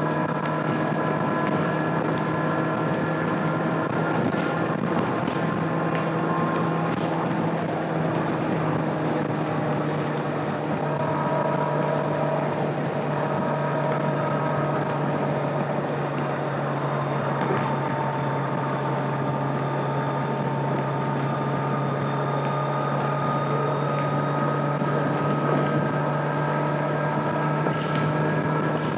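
Stock 2025 Kawasaki Z900's 948 cc inline-four running at a steady highway cruise, its pitch holding nearly constant with small dips and rises, with wind rushing over the microphone.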